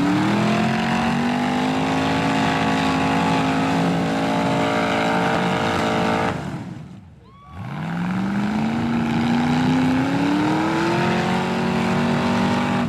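Rock buggy's Ford engine run at full throttle, held at high revs for about six seconds. It drops off briefly, then revs up again and holds high once more.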